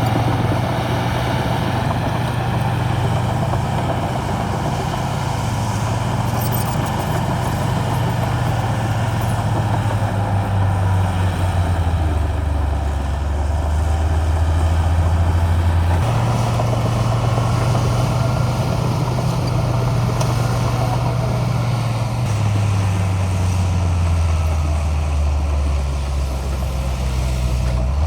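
Heavy diesel engine of earthmoving machinery running steadily. Its low hum drops in pitch in two steps, jumps back up about halfway through, then drops again near the end.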